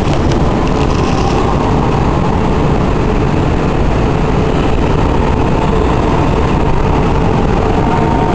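Steady rumble of railway noise with a faint steady hum as a Shinkansen train approaches along the tracks.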